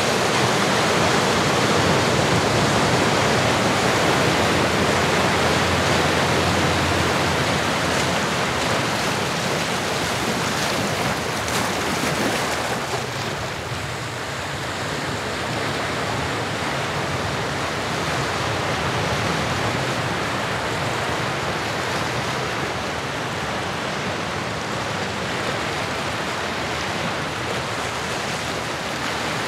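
Ocean waves breaking and washing on a shore: a steady rush of surf that eases a little about halfway through.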